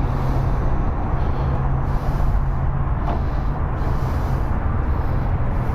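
Harley-Davidson Street Glide's 96-cubic-inch Twin Cam V-twin idling steadily through a Vance & Hines X-pipe with slip-on mufflers, a constant low rumble.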